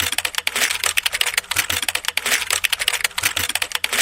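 Rapid, irregular clicking clatter, many sharp clicks a second.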